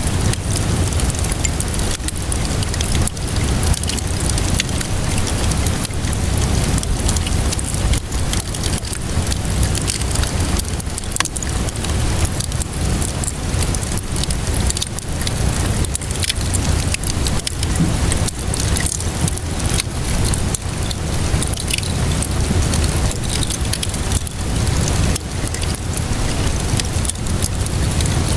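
Wood fire crackling steadily, with many small sharp pops and snaps, over a constant hiss of rainfall and a low rumble.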